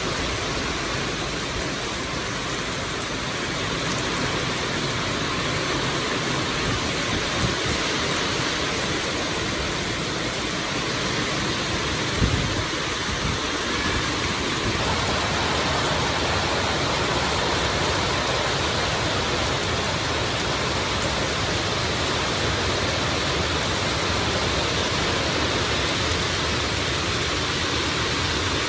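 Heavy rain falling steadily, a dense even hiss, with one brief thump about twelve seconds in.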